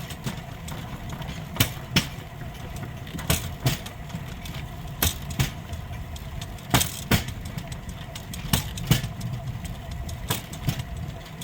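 Steel wheels of a rail bike rolling along old railway track: a steady rumble with sharp clicks at uneven intervals, typical of the wheels passing over rail joints.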